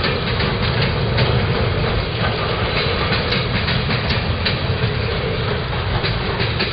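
Diesel freight train rolling past close by: a steady rumble of steel wheels on rail with irregular clicks as wheels cross rail joints, and a diesel engine hum underneath.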